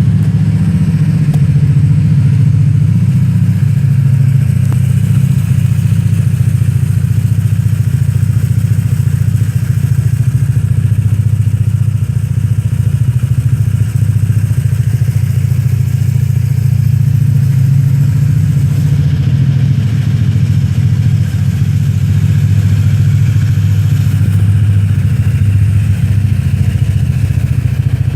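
Honda PCX scooter's single-cylinder four-stroke engine idling steadily through its exhaust silencer, with a deep, even exhaust note.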